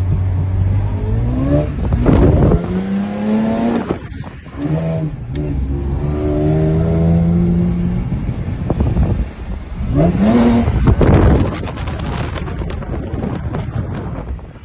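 Drift ute's engine revving hard while drifting, the revs climbing and holding high three times with dips in between, over the hiss of sliding tyres.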